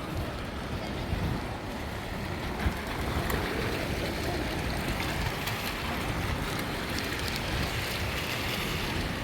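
Steady outdoor background noise: an uneven low rumble under a hiss, with a few faint clicks.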